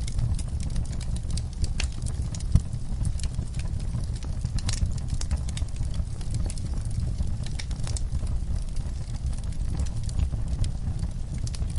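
Wood fire burning in a fireplace: a steady low rumble of the flames with frequent sharp crackles and pops, one louder pop about two and a half seconds in.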